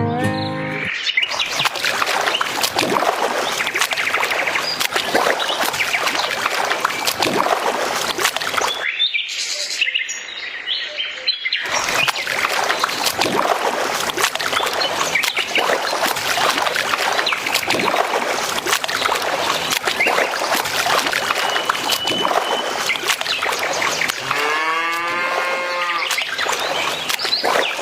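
Farmyard sound: cattle mooing amid a busy background, with one clear drawn-out moo about three-quarters of the way through.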